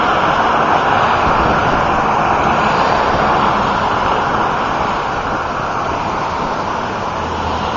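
Steady road traffic noise, a continuous rush of passing cars that eases slightly towards the end.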